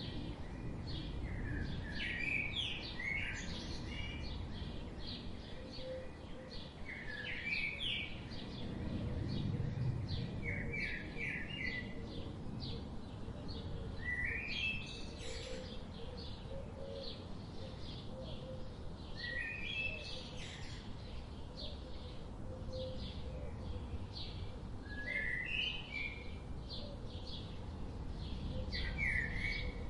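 Several birds chirping and singing: a short phrase of rising notes recurs every few seconds over a scatter of quick, high chirps, with a low, steady rumble of outdoor background noise underneath.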